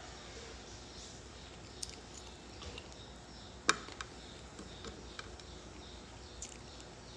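Close-up eating noises: scattered small mouth clicks and soft knocks, with one sharp, loud click about three and a half seconds in.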